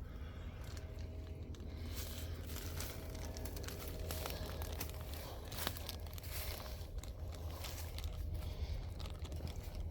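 Dry bamboo leaf litter and twigs crunching and crackling underfoot in a steady run of small irregular crackles, over a steady low rumble.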